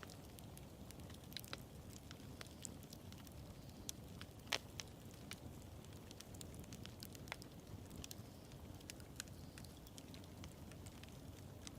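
Bonfire burning with a low steady rumble and scattered crackles and pops of burning wood, the loudest pop about four and a half seconds in.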